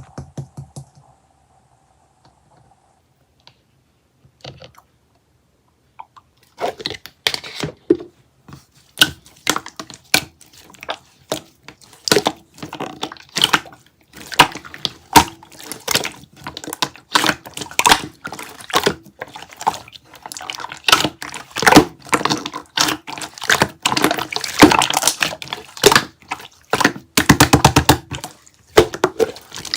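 Slime being pressed and squished by hand: a dense run of wet clicks and pops that starts about six seconds in, after near quiet.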